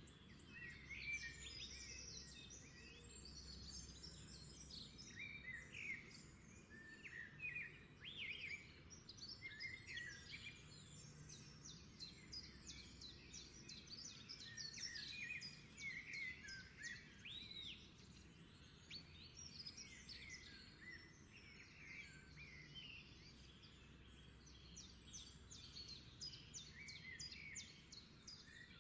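Many small birds chirping and singing, short calls and quick trills overlapping steadily throughout, over a faint low hum.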